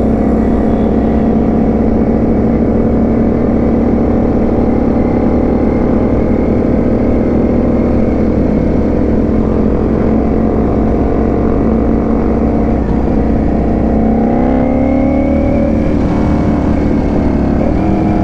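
Ducati Panigale V4 S's V4 engine running steadily at cruising speed, heard from the rider's seat with wind rush over the microphone. About fourteen seconds in the engine note rises as it accelerates, then drops back near the end.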